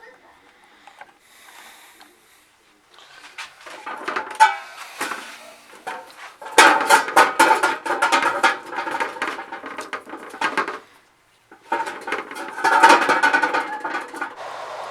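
Clattering and clicking of small hard parts being handled, in two long spells with a brief pause about two-thirds of the way through.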